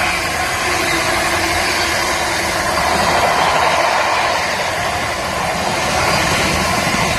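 A train passing close by: steady, loud running noise of the locomotive and the rolling stock on the rails.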